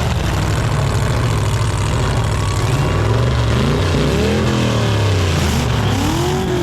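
Full-size demolition derby cars' engines running loud, with revs rising and falling over the last few seconds as the cars accelerate and back off.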